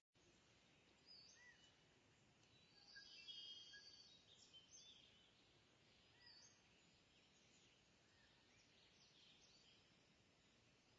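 Faint bird chirps over a low background hiss: short, scattered rising and falling calls, with a brief trill about three seconds in.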